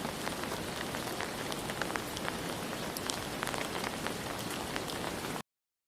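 Steady light rain hissing, with many small drop ticks. It cuts off suddenly near the end.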